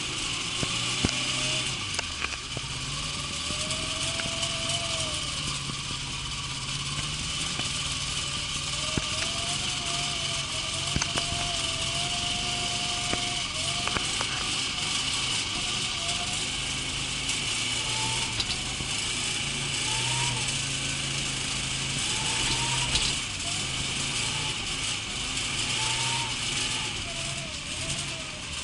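A Lada Zhiguli's engine running, its revs rising and falling, over a steady hiss.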